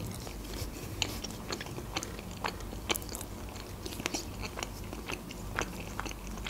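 Close-miked chewing of pizza: a string of irregular short mouth clicks and smacks, a few each second.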